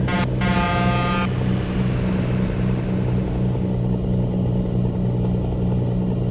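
Truck engine running steadily with a low drone. A brief pitched tone, like a horn or beep, sounds for about a second just after the start.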